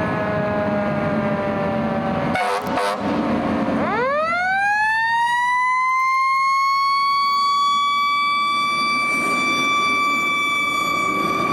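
Fire engine siren winding down in pitch, broken briefly about two and a half seconds in. It then winds back up in a steep rise and holds a steady high pitch.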